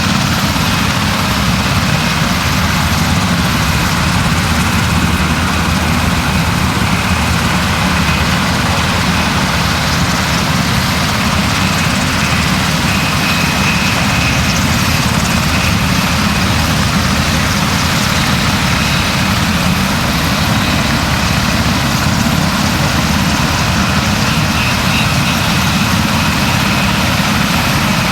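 Loud, steady engine drone with no change in speed.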